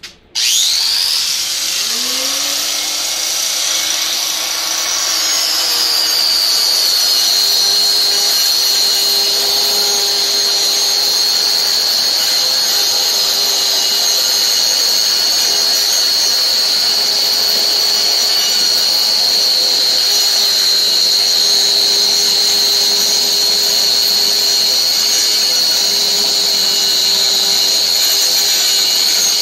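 Power tool switched on abruptly, its high-pitched whine sliding lower over the first few seconds and then running steadily.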